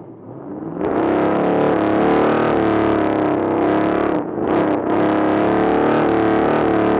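Trophy truck's race engine pulling away and running hard at high revs, swelling in about a second in, with a brief dip about four seconds in.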